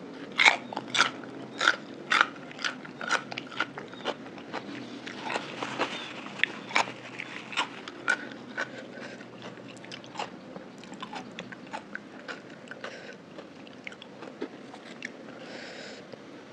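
Close-miked chewing of a raw cucumber slice: crisp, wet crunches about twice a second, thinning out and softening as it is chewed down. Near the end a brief crinkly rustle as a sheet of roasted seaweed is handled.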